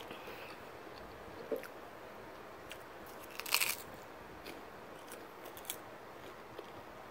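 Close-up biting and chewing of a crunchy rice cake: scattered crisp crunches, with a loud cluster of crunching about three and a half seconds in.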